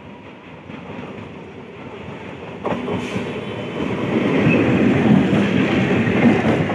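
Electric multiple-unit local train approaching and passing close by, its rumble and wheel clatter growing steadily louder, with a sudden step up about two and a half seconds in, and loudest as the cars run past in the last few seconds.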